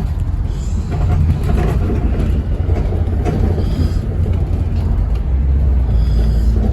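Scania N270UD OmniCity double-decker bus's five-cylinder diesel engine running as the bus drives, heard from inside the cabin as a steady low rumble. Its note settles into a deeper, steadier hum about five seconds in.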